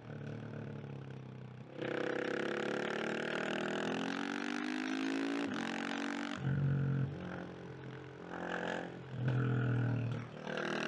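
KTM 690 SMC R supermoto's single-cylinder engine under a rider's throttle. It runs softly off the throttle at first, then picks up about two seconds in and its revs climb steadily for about four seconds before the throttle shuts suddenly. After that come a few short bursts of throttle with dips between them, and it pulls again near the end.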